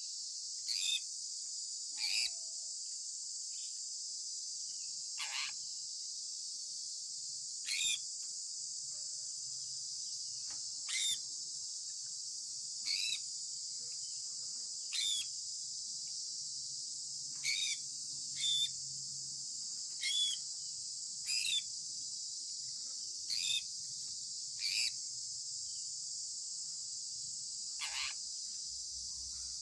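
Sun conure parrot giving short, sharp chirps, about fourteen of them, one every second or two, over a steady high-pitched hiss.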